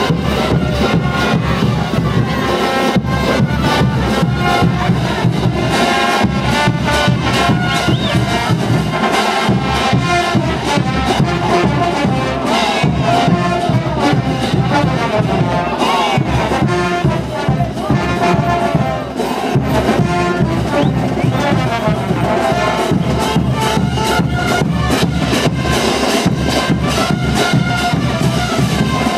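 Brass band playing diablada music: trumpets and trombones carrying the melody over a steady, fast beat of bass drum and cymbals.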